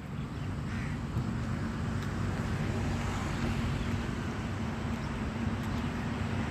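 Steady low mechanical hum with a continuous background rush, rising a little in the first second and then holding steady.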